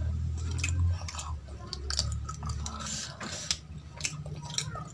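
Close-up chewing of aloo paratha with dal, with many small wet mouth clicks and smacks, over a steady low hum.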